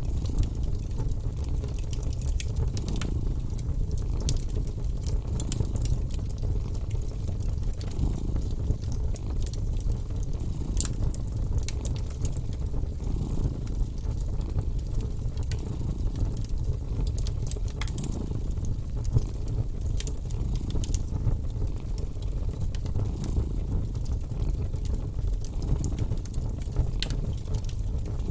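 A cat purring in a steady low rumble, over a wood fire crackling with scattered sharp pops.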